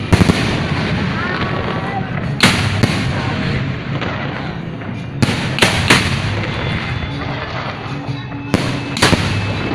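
Aerial fireworks bursting: sharp bangs coming in clusters of two or three every few seconds, over a continuous crackle and rumble of further bursts.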